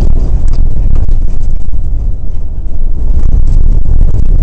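Rally car on a dirt track heard from inside the cabin: a loud, steady low rumble of engine and tyre noise, easing briefly about two seconds in.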